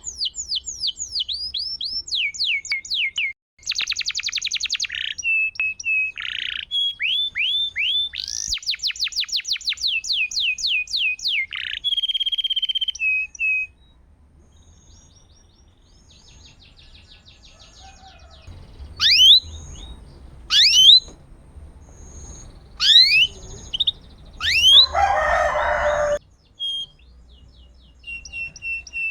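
Domestic canary singing a fast, varied song: rapid runs of repeated downward-sweeping notes and trills, pausing about halfway. It resumes with several loud, sharp sweeping calls and a brief harsh rasp, then high trills again near the end.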